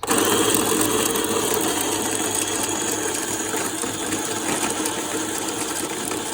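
Electric burr coffee grinder starting abruptly and running steadily, its motor driving the burrs as they grind whole coffee beans.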